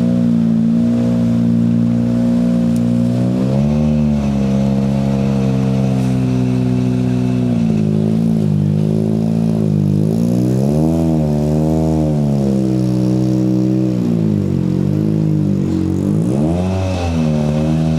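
Ford Fiesta RS WRC rally car's 1.6-litre turbocharged four-cylinder engine running without a break, its pitch rising and falling several times as the revs change.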